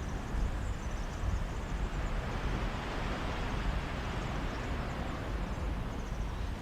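Mediterranean sea waves washing onto the shore, one swell of surf building to its loudest about halfway through and then easing off, over a steady low rumble of sea breeze on the microphone.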